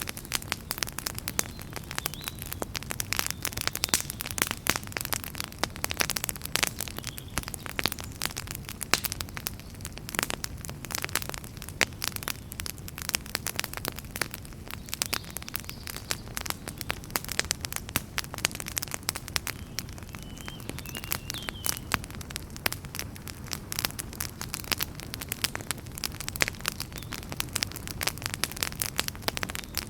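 Wood fire burning in a fireplace, with a steady low rumble of flames and dense, irregular crackles and pops.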